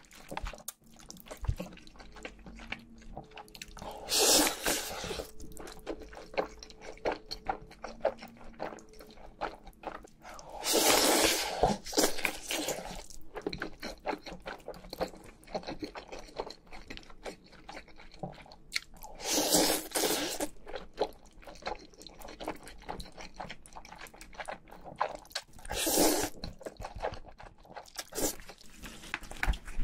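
Close-miked mukbang eating: steady wet chewing and mouth clicks, broken about every six or seven seconds by a longer, louder slurp of spicy noodles, five in all.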